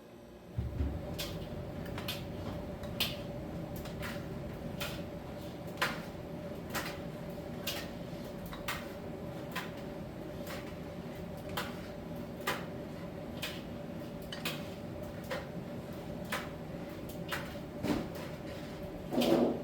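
Miele T1 heat-pump dryer running in its drying phase: a steady machine hum that starts up under a second in, with light knocks about once a second as the laundry tumbles in the turning drum, and a louder knock near the end.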